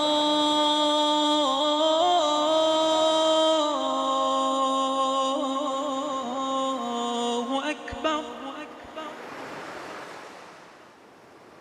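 A solo voice chanting unaccompanied in long held notes with small melodic ornaments, slowly stepping down in pitch. It stops about eight seconds in, and a soft wash of hiss fades away after it.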